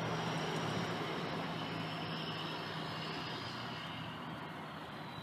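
A passing motor vehicle on the street, its engine hum and tyre noise slowly fading as it moves away.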